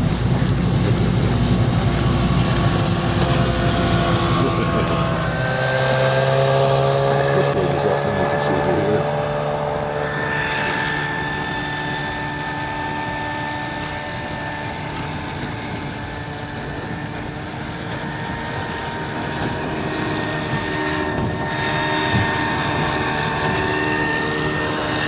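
Old outboard motor running steadily, with an engine note that shifts slightly in pitch. A heavy low rumble drops away about five seconds in.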